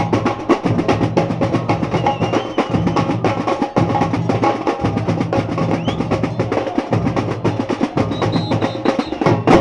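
Samba percussion band drumming a fast, steady rhythm, with deep bass drums under snare and small percussion.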